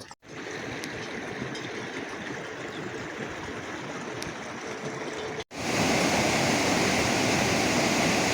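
Steady rushing noise of heavy rain, broken off twice by abrupt cuts and markedly louder after the second, about five and a half seconds in.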